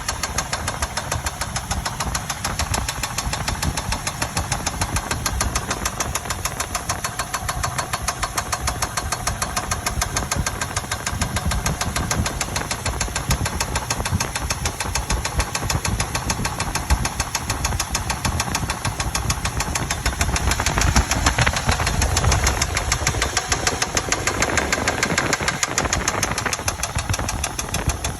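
2000 Chevy Tahoe Limited's V8 engine running with a fast, even ticking knock, the engine noise the owner wants diagnosed. It runs louder for several seconds in the second half.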